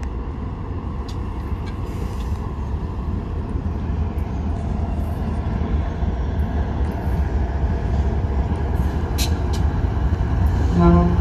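Diesel locomotives of an approaching freight train running with a steady low rumble that grows slowly louder; near the very end the lead locomotive's horn starts to sound.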